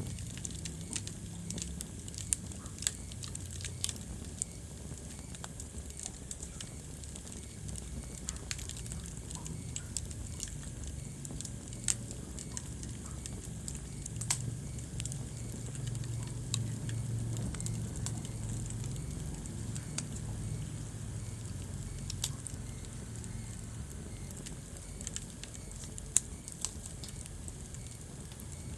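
Wood fire burning in a fireplace: a low steady rumble of the flames with irregular sharp crackles and pops of the burning wood.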